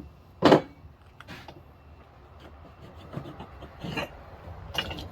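Tools and tire working on a manual tire changer: rubbing and scraping against the wheel rim with a few short knocks, the loudest a sharp knock about half a second in.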